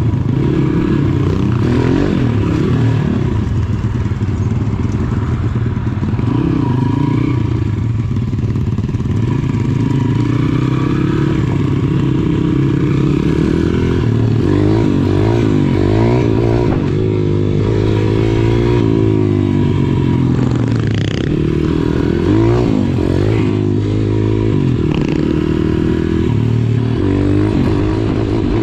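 Pit bike engines running while riding, the throttle rising and falling so the engine note climbs and drops again and again.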